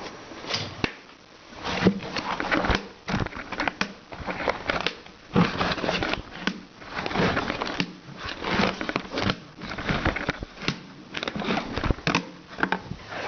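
A plastic pail and the bag inside it being handled: repeated crinkling and rustling with short knocks.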